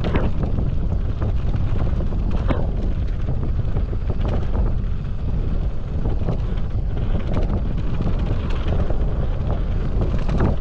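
Wind buffeting the rider's camera microphone at speed while a mountain bike rolls down a dirt trail, with occasional clacks from the bike going over bumps.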